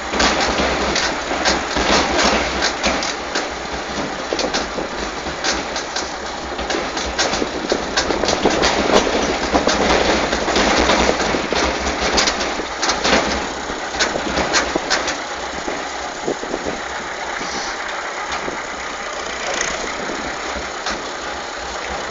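Tractor running as it drives across the field, a steady engine din with frequent clattering and knocking rattles throughout.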